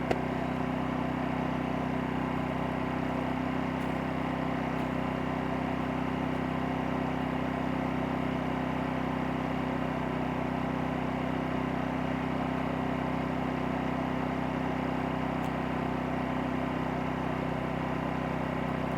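Champion 2000-watt dual-fuel inverter generator (model 100900) running steadily at low speed in eco mode, a quiet, even engine hum with no change in pitch.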